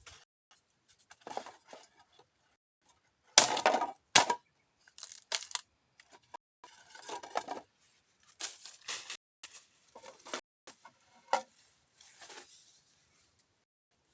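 Dry plant material, such as bamboo or brush, being broken and handled: irregular crackling and snapping. The loudest burst of cracks comes a little over three seconds in, with a sharp snap just after.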